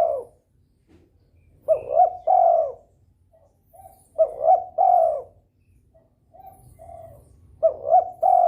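Spotted dove (derkuku) in breeding condition cooing repeatedly. Each phrase is three notes, two short and a longer final one, about a second long, coming every two to three seconds, with a few softer notes in between.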